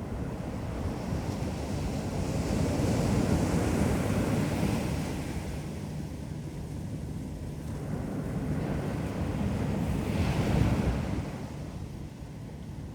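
Ocean waves breaking and washing up on a beach: a rushing surge that swells about two seconds in, eases off, then swells again about ten seconds in.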